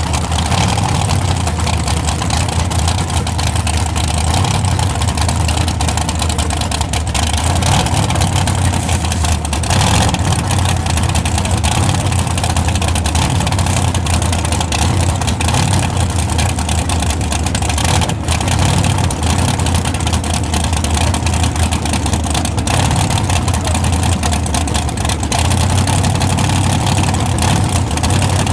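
Truck engines running steadily with a low rumble under a haze of background noise.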